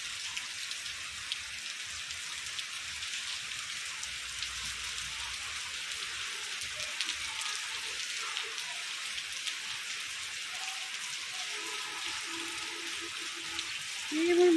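Heavy rain falling steadily: an even hiss with many small drop ticks. A short pitched sound, like a voice, rises and falls just before the end and is the loudest thing heard.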